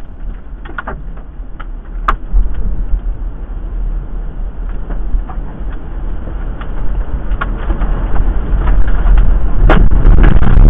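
Storm wind roaring and buffeting the microphone in a low rumble that grows steadily louder, with scattered sharp knocks and clatter of debris.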